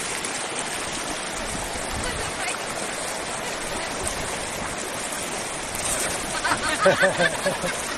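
Steady rush of flowing water. Near the end there is a short, louder burst of a person's voice.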